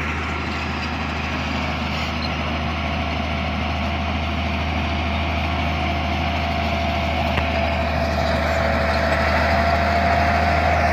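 Bulldozer's diesel engine running steadily under load, slowly growing louder. A steady whine rises above the engine from about halfway through.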